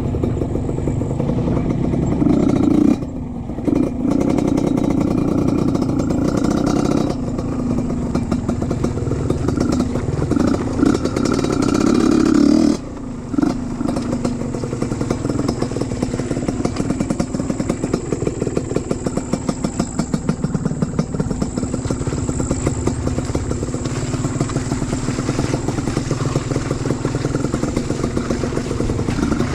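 Trail motorcycle engine running under load, revving up and down, with the throttle closing sharply about three seconds in and again near thirteen seconds, then chugging at low revs with an even pulsing beat.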